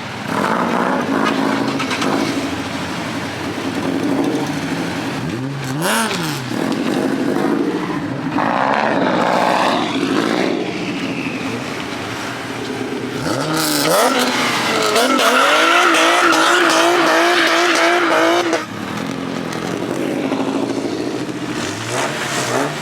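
Car engines revving, rising and falling in pitch, with a louder wavering squeal about two-thirds of the way through that cuts off suddenly.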